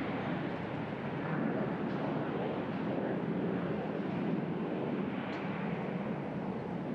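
Steady rushing noise of the Airbus A350 XWB's Rolls-Royce Trent XWB jet engines, an even roar without distinct tones.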